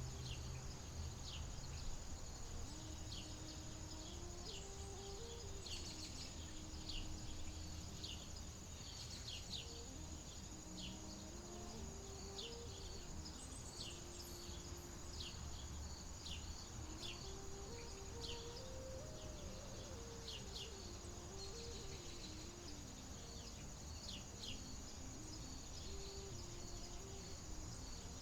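A steady high drone of insects such as crickets, with short, quick chirps of small birds scattered throughout. Underneath are a low rumble and a soft, slow melody that moves in small steps.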